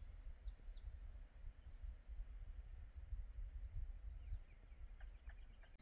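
Small birds chirping in short, quick, high notes that sweep downward, in scattered bunches, over a steady low rumble.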